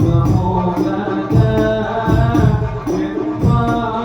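Sholawat being sung by a male lead voice in long, melismatic held notes over a steady rhythm of hand-struck frame drums.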